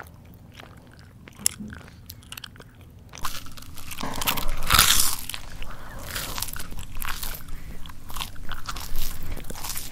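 A person chewing and biting food close to the microphone, with wet mouth clicks. Soft and sparse for the first three seconds, then louder, dense chewing from about three seconds in.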